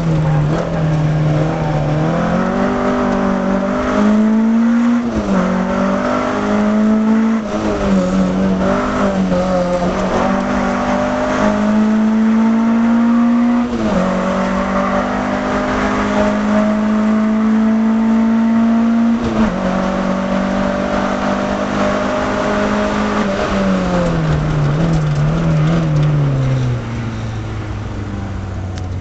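Peugeot 305 GTX's 1.9-litre four-cylinder petrol engine, heard from inside the car, revving hard up through the gears: the revs climb and drop sharply at each upshift several times. Near the end it steps down through downshifts and settles to a low, steady run.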